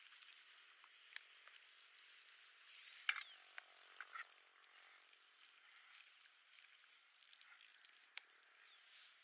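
Near silence: faint outdoor ambience with a thin steady high tone and a few scattered light clicks, the loudest about three seconds in.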